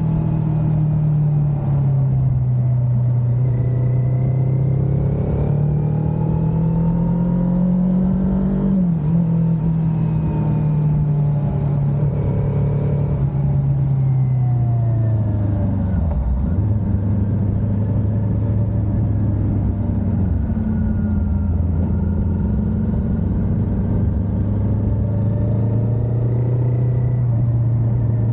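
Kawasaki Ninja 400's parallel-twin engine running under way. The engine note climbs until about nine seconds in and dips briefly, then falls about halfway through and holds low and steady.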